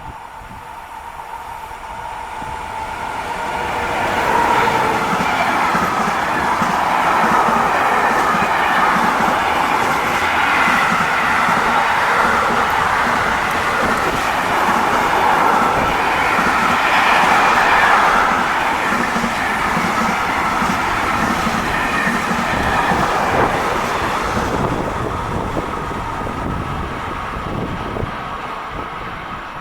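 A train passing through a station without stopping: the rail noise builds over the first few seconds, stays loud for about twenty seconds as the train goes by, then fades.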